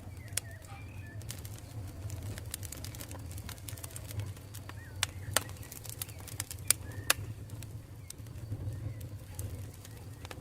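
Campfire burning, with irregular sharp crackles and a few louder pops in the middle over a steady low rumble of the flames.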